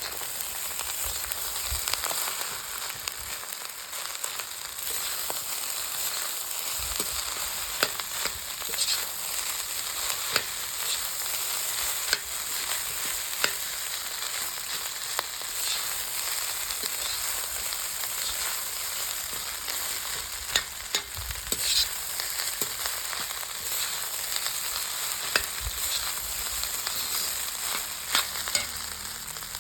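Food sizzling as it is stir-fried in a hot pan, with a steady hiss and a spatula clicking and scraping against the pan at irregular moments.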